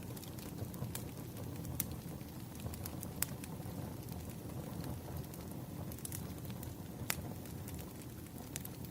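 Firewood burning: a steady low rumble of flames with scattered sharp crackles and pops, four of them louder than the rest.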